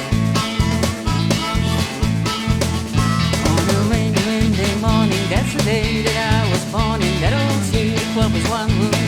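Country-rock band playing an instrumental intro: a steady bass line and drum beat with guitar, and a lead melody with bent, sliding notes that comes in about halfway through.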